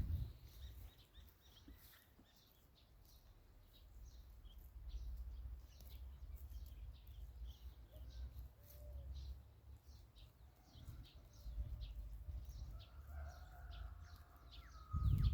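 Faint outdoor ambience: small birds chirping over and over, over an uneven low rumble.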